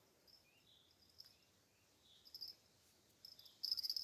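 Crickets chirping in short, high, pulsing trills that come in bursts every second or so, loudest near the end.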